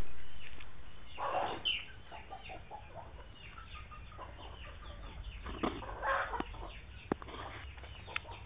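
Birds calling with chicken-like clucking, in many short repeated calls and two louder bursts of calling. A couple of sharp clicks come near the end.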